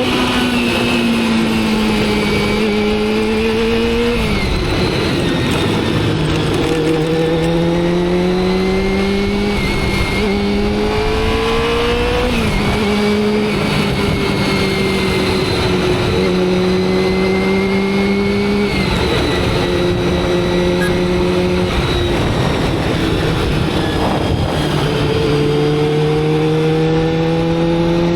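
Motorcycle engine running under way. Its pitch climbs slowly and then drops sharply at each of several gear changes, over a steady rushing noise.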